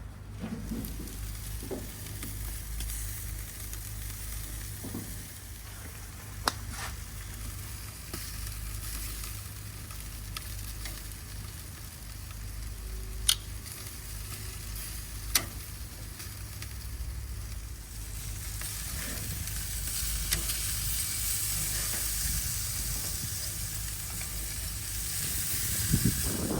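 Meat sizzling over a charcoal grill, with a steady hiss and a few sharp pops. The sizzle grows louder in the last third.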